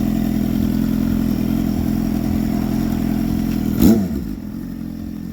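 Motorcycle engine running steadily, with a brief louder burst about four seconds in, after which it runs a little quieter.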